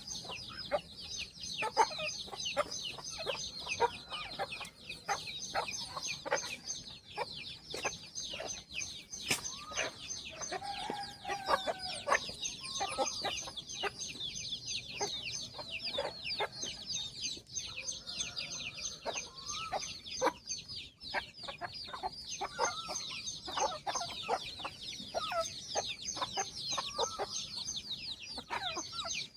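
A brood of chicks peeping steadily with many high, falling cheeps, while a mother hen clucks lower at intervals among them.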